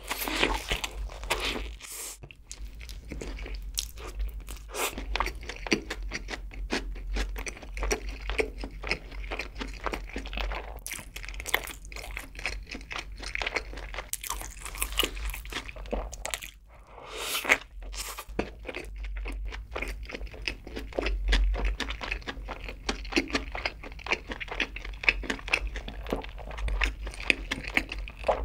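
Close-miked eating sounds of a double cheeseburger being bitten into and chewed: a steady stream of small crunches and chewing clicks. There is a short lull about two-thirds of the way in.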